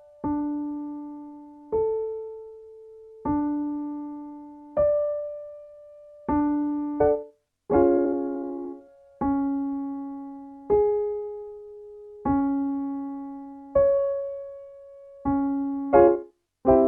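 Piano playing a vocal warm-up pattern: single struck notes about one and a half seconds apart, alternating between a low note and a fifth or an octave above it, each ringing and fading. A chord about eight seconds in, and again at the very end, sets the pattern in a new key.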